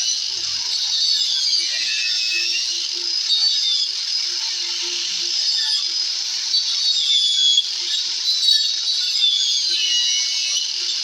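Angle grinder cutting into a wooden subwoofer box, its high whine dipping and rising as the disc bites and frees up.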